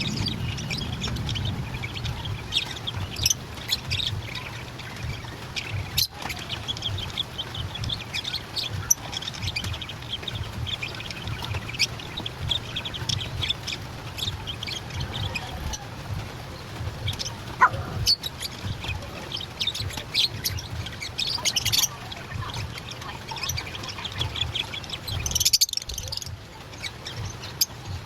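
Lovebirds chirping and twittering in rapid, overlapping calls. A low, steady hum runs beneath.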